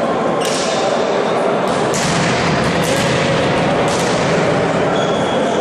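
Steady loud din of a ball game in a sports hall, with sharp ball impacts about five times and a brief high squeak near the end.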